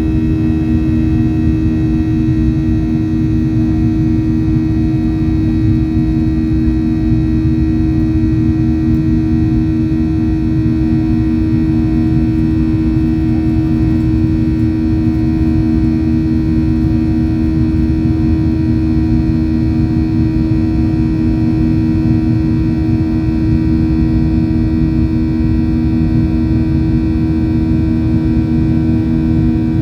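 Boeing 737-800 cabin noise as heard from a window seat: the CFM56-7B jet engines running steadily, a loud low rumble with a strong, steady two-note hum over it.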